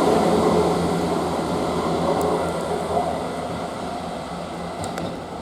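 Diesel multiple unit (a Class 158 coupled to a Class 159) pulling away, its underfloor diesel engines and wheels making a steady rumble and hum that fades as the train moves off.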